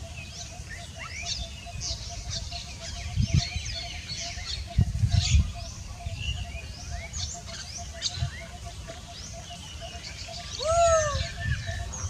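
Birds chirping, with many short high chirps and whistled glides and a faint steady tone underneath. Near the end comes one louder whistle that rises and then falls.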